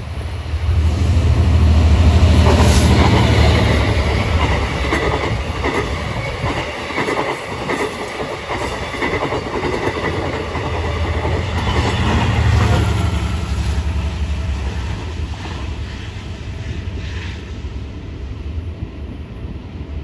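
Long Island Rail Road train passing at speed, a deep rumble with fast clickety-clack of wheels over the rail joints. It is loudest about two seconds in, swells again around twelve seconds, then fades.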